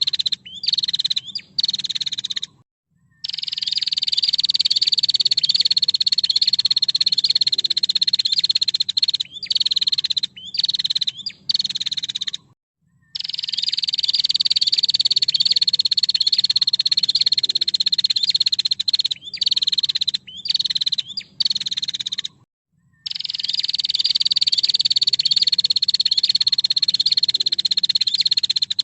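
Female prinia (prenjak) giving long, rapid, high rattling trills of about nine seconds each, the pitch sagging slightly through each trill, with short sharp calls between them. The same sequence repeats about every ten seconds.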